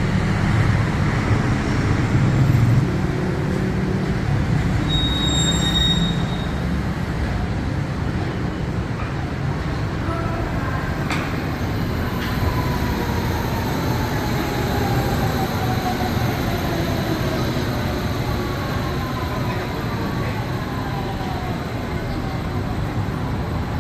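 Bangkok Pink Line monorail train, an Innovia Monorail 300 on rubber tyres, running along its elevated guideway over a steady hum of road traffic. It is loudest in the first few seconds. A short high tone comes about five seconds in, and a whine slowly falls in pitch from about twelve seconds on.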